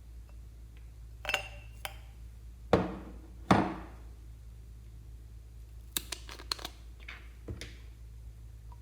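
Several sharp taps and clicks of small hard objects being handled, the loudest two a little under three and about three and a half seconds in, then a quick run of lighter clicks around six seconds, over a steady low hum.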